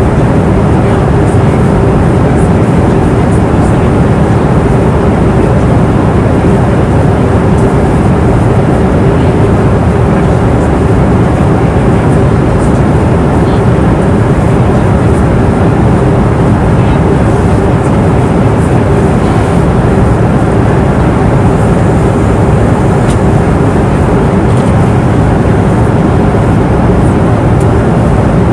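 Passenger airliner cabin noise in flight: a steady, even rush of engine and airflow noise with a constant low hum running through it.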